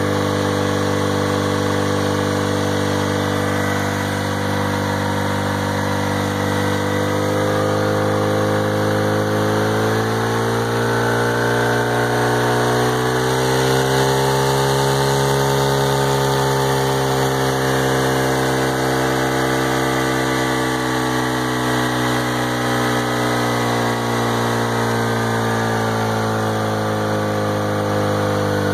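Honda R18 1.8-litre four-cylinder engine with a T3 turbo and a Viking reduction gearbox, running smoothly unloaded on a test stand with no propeller. From about eight seconds in its speed climbs gradually to about 4,000 rpm, holds near the middle, then eases back down to about 3,300 rpm near the end.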